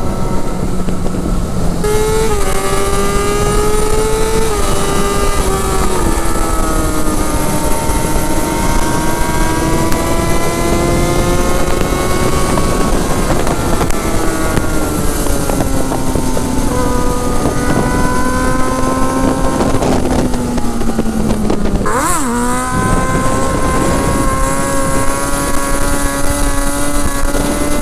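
Sport bike engine pulling at road speed, its pitch slowly rising and falling with the throttle, with a quick drop and climb in pitch about three quarters of the way through as it shifts gear. A steady rush of wind noise runs underneath.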